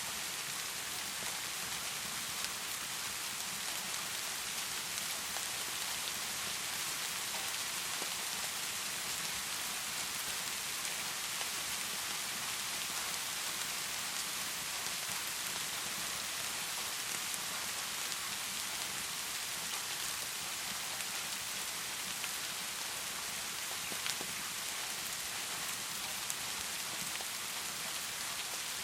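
Heavy rain falling steadily, an even hiss with a few faint clicks here and there.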